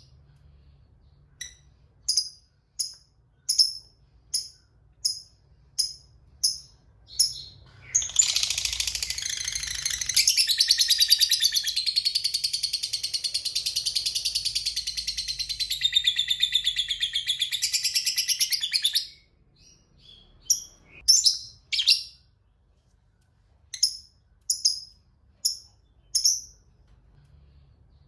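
Lovebird giving short, high single chirps about once a second, then from about eight seconds in a long, rapid chattering trill, the 'ngekek panjang' that lasts about eleven seconds, before going back to single chirps.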